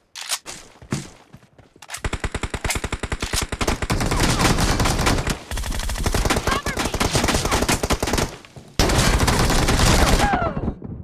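Video game automatic gunfire: rapid sustained bursts of shots starting about two seconds in, a short break, then another loud burst near the end.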